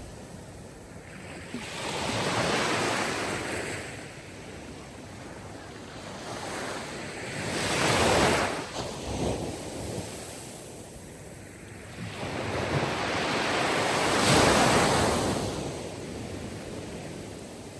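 Sea surf: waves breaking and washing in, each one swelling into a broad hiss and then fading, three surges about six seconds apart.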